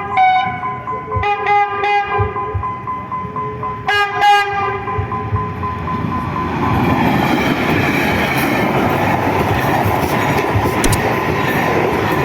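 A train passing close by: rail and running noise builds about six seconds in and stays loud. Before that, music with repeated plucked notes plays and fades under it.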